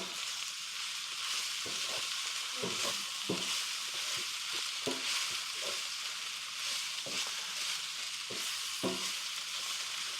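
Vegetables sizzling in a hot frying pan, with the irregular scrape and knock of a utensil stirring them every second or so.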